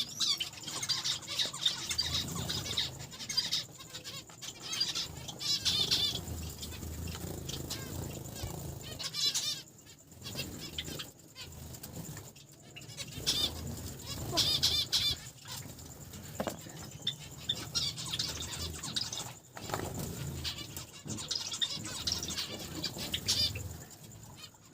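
Small caged finches (Java sparrows, zebra finches, Gouldian and Bengalese finches) chirping and calling over and over in short, wavering notes, with wings flapping and fluttering among them.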